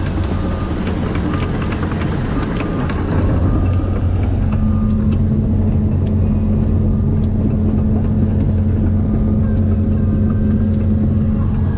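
Kobelco SK210 excavator's diesel engine running with a strong low hum, heard from inside the cab while the machine tracks along, growing louder about three to four seconds in. Scattered sharp clicks and clanks sound over it.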